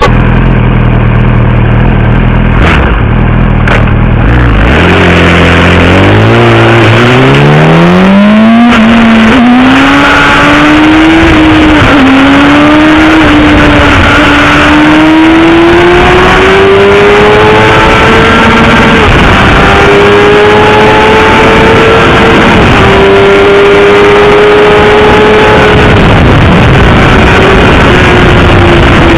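Loud 2007 Yamaha R1 inline-four sport bike engine with an aftermarket Scorpion exhaust in a tunnel. It runs steadily for a few seconds, then the revs climb quickly. After a couple of brief dips it holds high revs, rising and falling a little.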